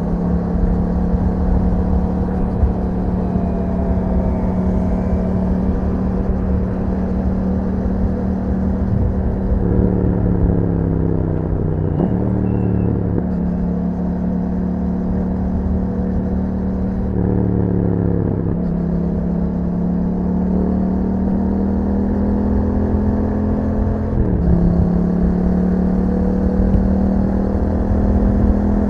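Yamaha MT-07's parallel-twin engine running through an Akrapovič exhaust under way, holding a steady note. Three times the revs drop and then climb back up, as the rider backs off and pulls away again.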